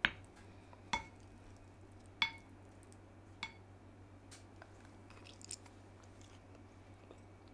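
Cutlery clinking against a ceramic dish four times, about a second apart, each tap ringing briefly.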